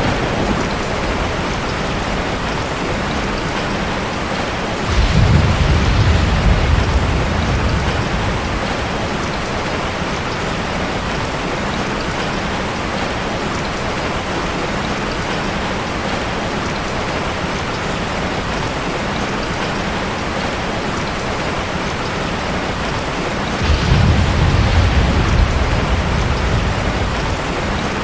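Heavy rain falling steadily, with two low rumbles of thunder, one about five seconds in and one near the end, each lasting a few seconds.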